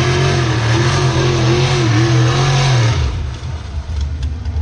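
Motor vehicle engine held at high revs with its pitch wavering, then easing off to a lower, quieter run about three seconds in.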